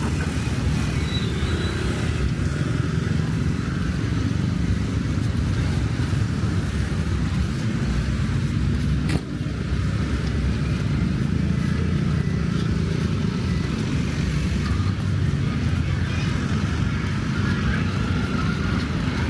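Busy street traffic with motorbikes and cars running past, a steady low noise throughout, and one sharp click about nine seconds in.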